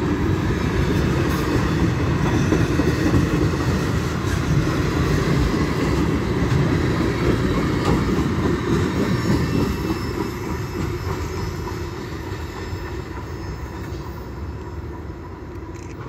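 Railcars of a passing train rolling along the track, their wheels running steadily on the rails. The noise fades over the last several seconds as the end of the train goes by and moves away.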